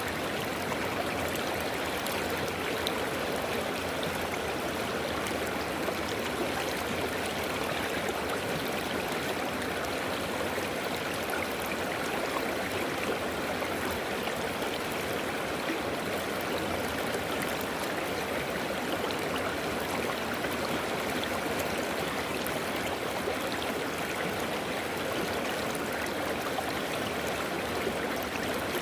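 River water flowing over rocks: a steady, even rush with gurgling.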